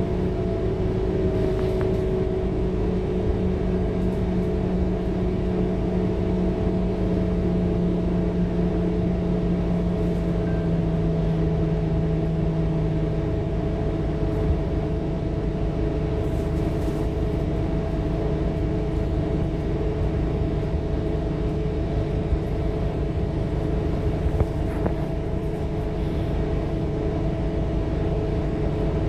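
Scania K230UB city bus's diesel engine running with a steady droning hum and road rumble; the hum's pitch drops slightly a little before halfway.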